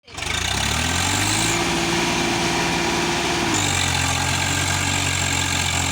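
Sonalika tractor's diesel engine running steadily. Its engine speed rises over the first second, holds, and drops back a little about three and a half seconds in.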